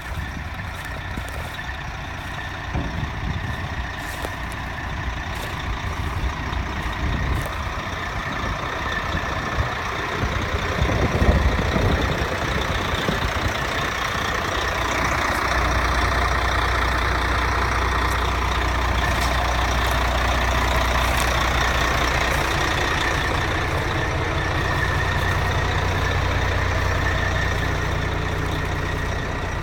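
1993 International 2674 grain truck's diesel engine running steadily with a faint high whine; about halfway through the engine note gets fuller and louder and holds there.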